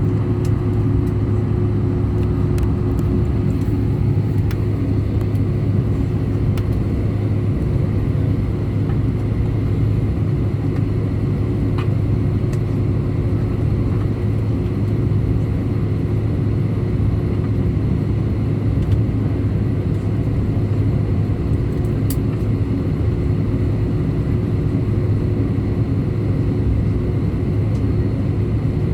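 Steady drone of an Airbus A319 airliner's jet engines heard inside the cabin, a constant low hum with a steadier higher tone over it.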